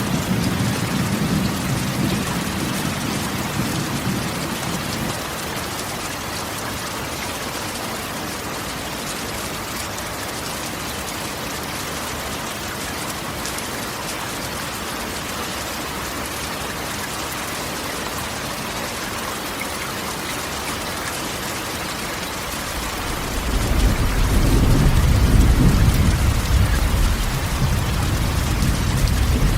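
Steady rain drumming on a corrugated tin roof, with a roll of thunder dying away in the first few seconds and another, louder rumble rolling in about three-quarters of the way through.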